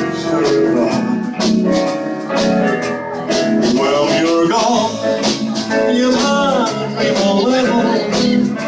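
Live band playing, with guitar lines over a steady drum beat.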